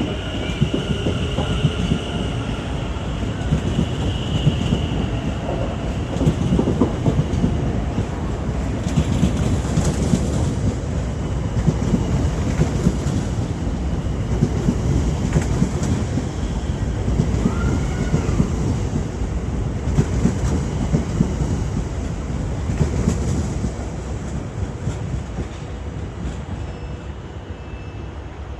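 Two coupled Class 730 electric multiple units pulling out of a station, with a steady rumble of wheels on rail and clicks over the rail joints. A high whine is heard in the first few seconds, and the sound dies away near the end as the train leaves.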